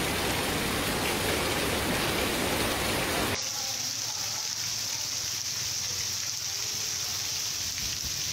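Heavy rain pouring down in a steady hiss; about three and a half seconds in it gives way abruptly to a quieter, thinner rain noise.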